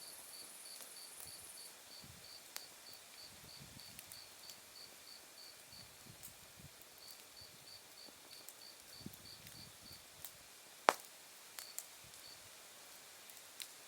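Insects chirping in a steady, even pulse of about three high chirps a second, which pauses midway and picks up again; a higher steady trill from another insect stops about two seconds in. An open wood fire crackles faintly underneath, with a few sharp pops of burning wood, one louder pop near the end.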